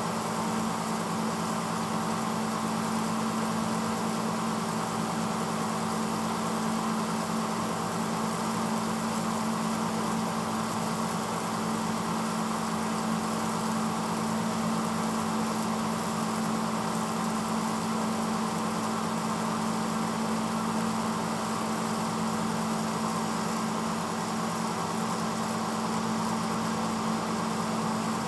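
1986 Hotpoint Potwasher dishwasher running mid-cycle: a steady motor hum under a constant rushing noise, unchanging throughout.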